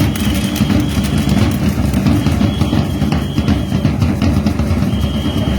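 Danza drums beating over a loud, dense low rumble.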